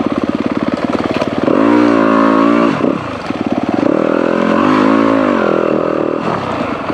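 Dirt bike engine ridden over trail at part throttle, with two bursts of revs about one and a half and four and a half seconds in, each rising and falling in pitch.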